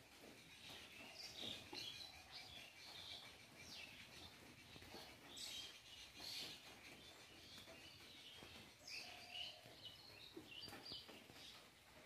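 Faint, scattered bird chirps and tweets over quiet outdoor background noise.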